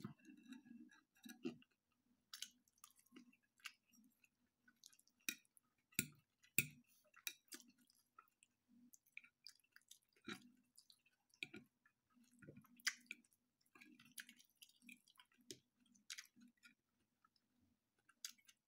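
Slow, faint chewing and mouth sounds of a person eating pasta with beef and vegetables. Scattered light clicks of a fork and knife on a ceramic plate come through at irregular intervals.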